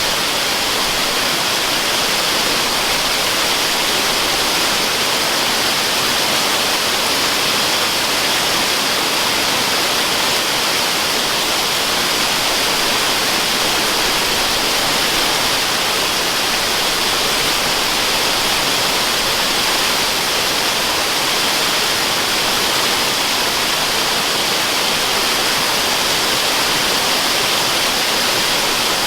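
Waterfall: a steady, unbroken rush of falling water, even and unchanging, with a bright hiss on top.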